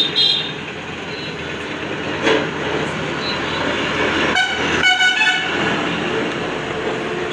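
Road traffic noise with vehicle horns honking a few times, the loudest toots about halfway through.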